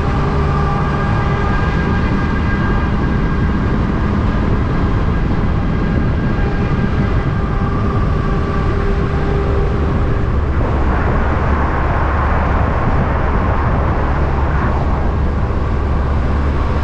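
Heavy truck diesel engine running steadily with a low rumble. From a little past the middle, a rushing noise rises over it for about four seconds, then eases off.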